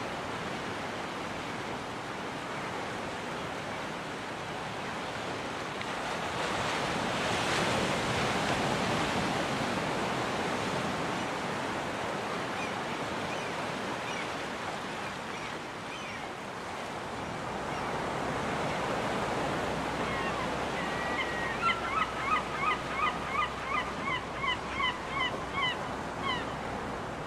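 Surf washing steadily on a beach, swelling as waves break. Near the end a gull calls in a rapid series of about a dozen short notes.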